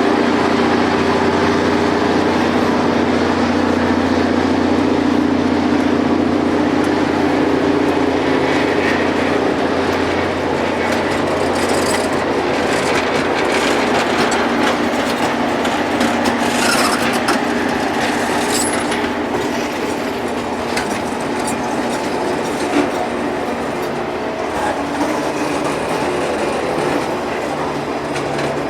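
Rail grinding train working along the track: a steady engine drone under a loud hiss of grinding wheels on the railhead, with many sharp crackles through the middle. The drone fades back somewhat in the second half as the noise spreads out.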